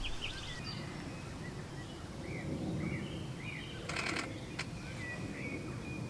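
Small birds chirping in the background over the low rumble of wind on the microphone. A short cluster of clicks comes about four seconds in, with one more click just after.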